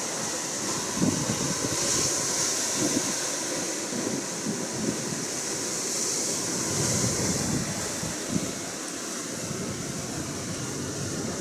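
Atlantic Ocean surf washing and swelling, rising and easing every few seconds, with wind gusting on the microphone.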